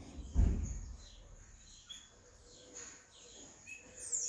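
Birds chirping faintly in the background: a few short high notes and a falling whistle near the end. A dull thump sounds about half a second in.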